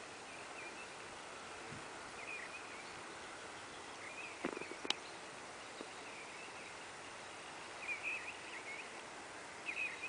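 Faint short bird chirps every couple of seconds over a steady outdoor hiss, with one sharp click about five seconds in.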